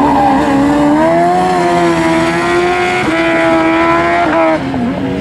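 Competition car's engine running at high revs through a slalom run, its pitch rising about a second in, dipping briefly about three seconds in as it shifts or lifts, then easing off near the end.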